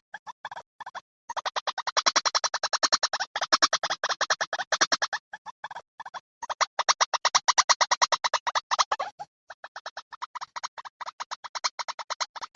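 Lure recording of white-breasted waterhen calls: rapid runs of harsh repeated notes, about ten a second, broken by short pauses.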